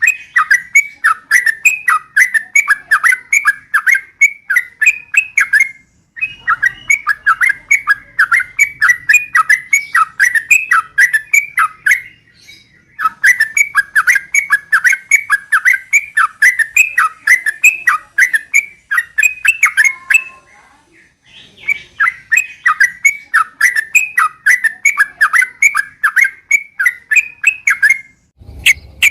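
Yellow-vented bulbul (trucukan) singing loud, rapid runs of bubbly, chattering notes in long phrases of about six seconds each, with brief pauses between them.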